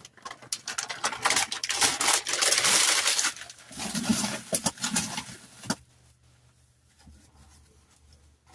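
Dry pasta poured into a metal pot: a dense rattling clatter for about three seconds, then a few scattered clinks and knocks, and quiet from about six seconds in.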